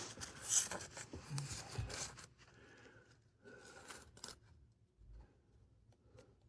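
Close rubbing and scraping noises for about two seconds, again briefly around the fourth second, then quiet with a few faint ticks.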